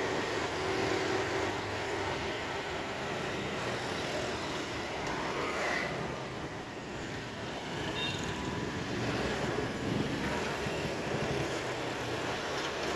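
Steady outdoor vehicle noise: a low engine rumble under an even hiss, with a few faint brief high chirps around the middle.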